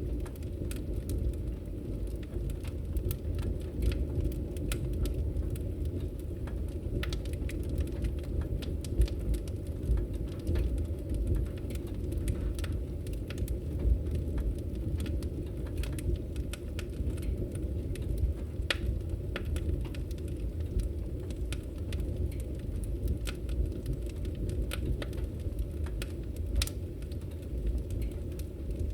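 Fire burning in a fireplace: a steady low rumble of flames with frequent small crackles and pops at irregular intervals, a few of them louder.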